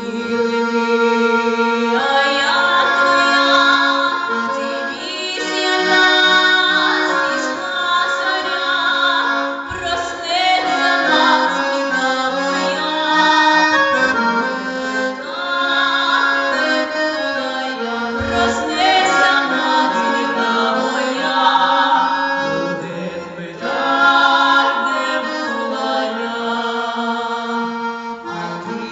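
Accordion playing an instrumental passage of a song: a melody over sustained chords that change every second or two.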